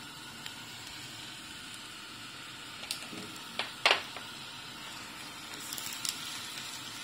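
Chicken pieces frying in oil in a pan: a steady quiet sizzle, with a few sharp clicks, the loudest about four seconds in.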